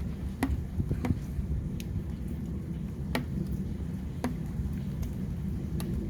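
Storm rain with a steady low rumble of wind and downpour, and about six sharp, irregular taps of drops striking a hard surface close by.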